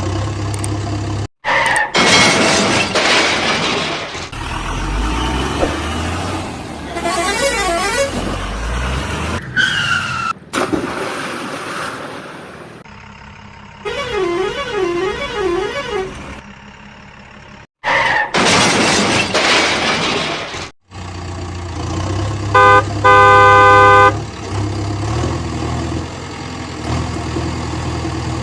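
Cartoon vehicle sound effects cut together: a low engine hum, loud noisy bursts, a wavering tone, and a truck-type horn honking twice near the end.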